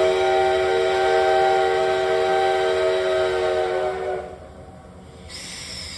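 Steam locomotive D51 200's whistle blowing one long, loud, steady blast that sounds several pitches at once and cuts off about four seconds in. A faint high tone slides downward near the end.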